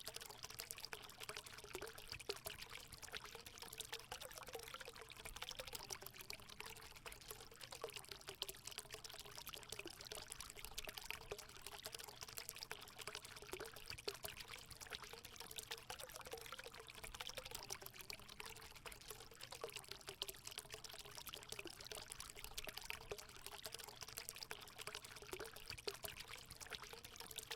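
Water running and splashing steadily into a hot spring pool, a continuous trickling pour with a faint wavering tone under it.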